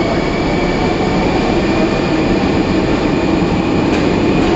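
Caracas Metro Line 1 train pulling out of the station: a steady, loud rumble with a faint high whine over it.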